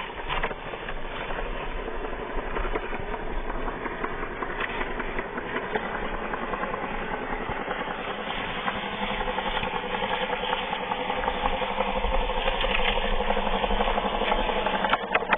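Small geared DC motor of a homemade mini tractor whirring steadily under load, getting a little louder toward the end.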